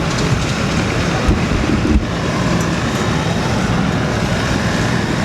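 Steady rumble of running engines, with wind buffeting the microphone.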